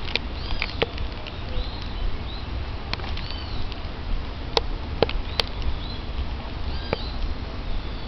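Birds calling in the trees: short, arching high chirps repeated here and there. A few sharp clicks fall near the middle, over a steady low rumble.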